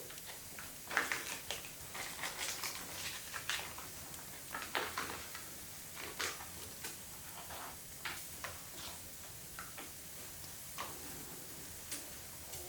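Wood fire crackling, with irregular sharp pops and snaps a few times a second over a faint steady hiss.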